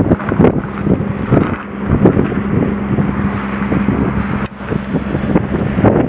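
Strong wind buffeting the microphone in uneven gusts, with a steady low hum underneath.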